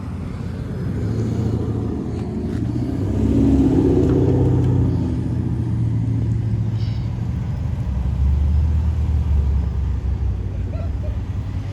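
A car engine running, its low rumble swelling louder about three to five seconds in and again later.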